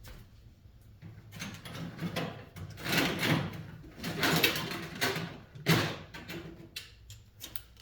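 Small metal fan-motor parts and screws being handled: a run of scraping and rattling with three sharper knocks in the middle, then a few light clicks near the end.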